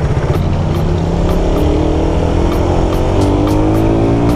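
Suzuki Raider 150 carburetted single-cylinder four-stroke engine pulling hard under way. Its pitch climbs steadily, dips sharply at a gear change about three seconds in, then climbs again.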